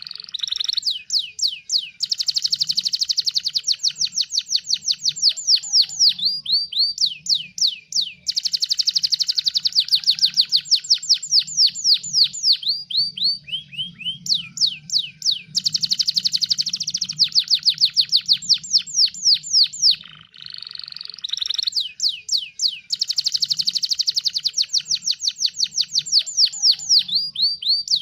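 Domestic canary singing: long rapid trills of repeated downward-sweeping notes, each run lasting a few seconds before switching to a new trill, with hardly a break.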